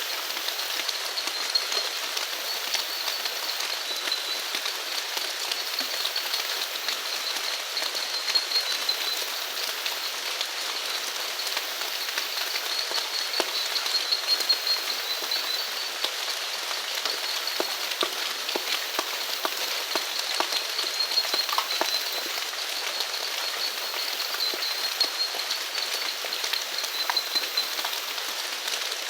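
Steady rain falling, with many fine drops pattering. Under it runs a continuous high-pitched chorus of small animals.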